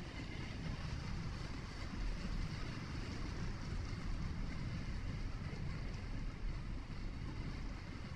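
Steady low rumble of a vehicle driving, tyre and engine noise heard from inside the cabin, with an even faint hiss above it.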